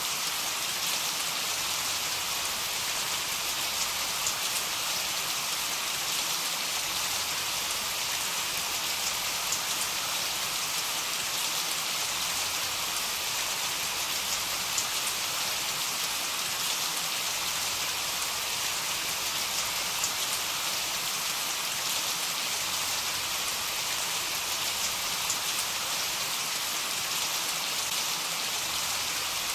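Heavy rain falling steadily: a dense, even hiss with scattered small drop ticks and no thunder.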